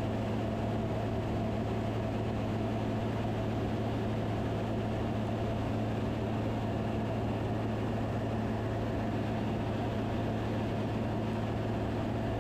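Steady drone of the Van's RV-10's engine and propeller in cruise, heard in the cabin: a low, even hum that does not change.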